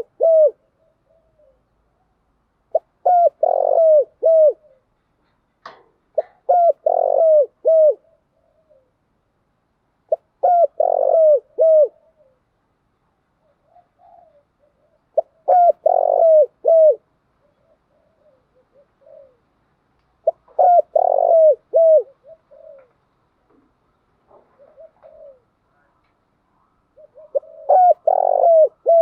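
Spotted dove cooing in repeated phrases of several short, hooked notes, a phrase every four to five seconds, with faint softer coos between the phrases.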